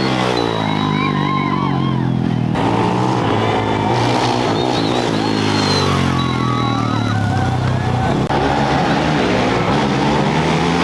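Off-road race motorcycle engines revving and accelerating away, their pitch rising and falling. High wavering calls from onlookers sound over the engines.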